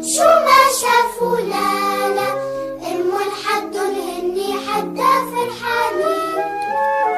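Arabic children's song: a child's singing voice over steady instrumental backing.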